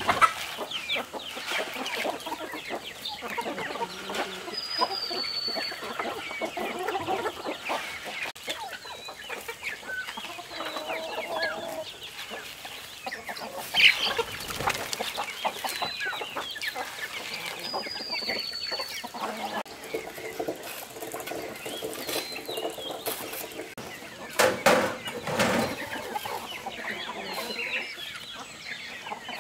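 Chickens clucking, with a few sharp knocks, the loudest about halfway through and another pair later on. A short high chirp sounds twice.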